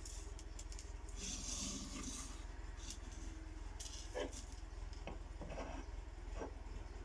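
Light close-up handling noises: a brief rustle early on, then a few scattered small clicks about a second apart, over a steady low hum.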